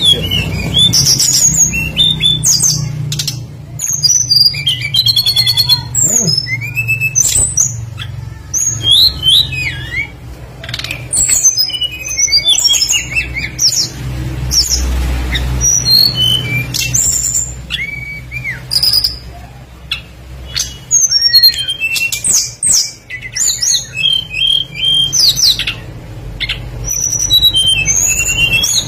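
Songbird song of the tledekan (a flycatcher) played as a lure: a dense run of quick chirps, rising and falling whistled notes and trills, phrase after phrase. A steady low hum runs underneath.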